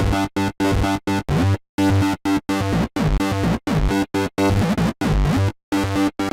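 Electro house synth loop at 130 bpm: hard-chopped, buzzy synth stabs cut off by short gaps of silence, with some notes bending down and back up in pitch.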